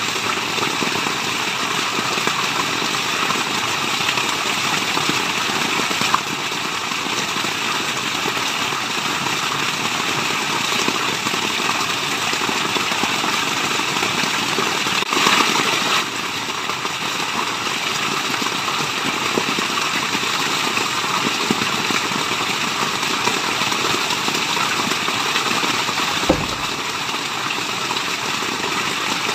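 Waterfall: a steady, even rush of falling water, with a brief louder surge about halfway through and a short low thump near the end.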